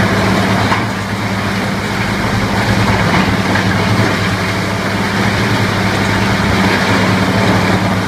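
Heavy machinery engine running steadily, a constant low hum with a dense mechanical noise over it.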